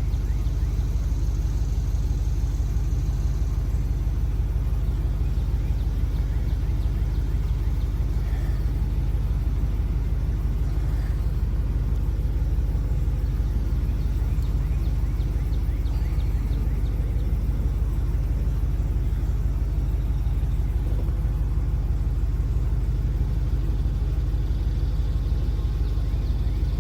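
An engine idling steadily: a low, even rumble with no change in speed.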